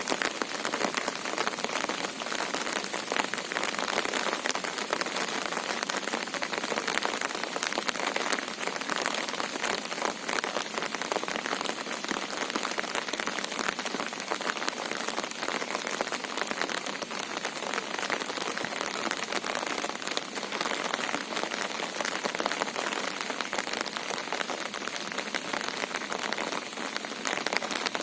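Monsoon rain falling steadily, a dense, even patter of drops with no let-up.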